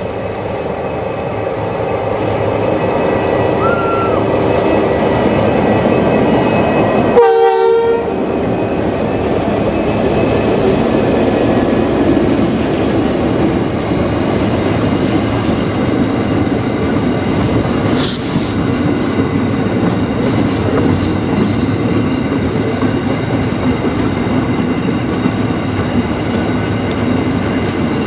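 Aurizon diesel-electric coal train passing close: the locomotive's engine goes by first, then a long rake of coal hopper wagons rolls past, wheels running steadily over the narrow-gauge rails. A brief horn note sounds about seven seconds in.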